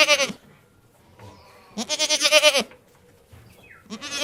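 Goat bleating: three quavering bleats, one trailing off just after the start, a full one about two seconds in, and another beginning near the end.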